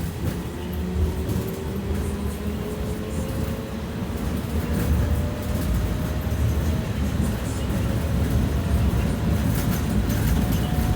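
Belkommunmash BKM 60102 tram heard from inside, pulling away: a thin whine from the traction drive climbs slowly in pitch as it gathers speed, over a steady rumble of wheels on rails.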